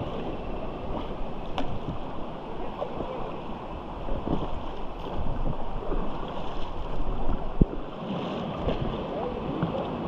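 River water rushing steadily around a whitewater raft, with faint voices now and then and a single sharp click about three-quarters of the way through.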